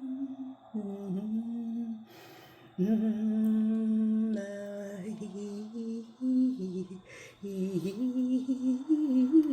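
A woman humming a slow, wordless melody in long held notes that slide between pitches, with short pauses between phrases.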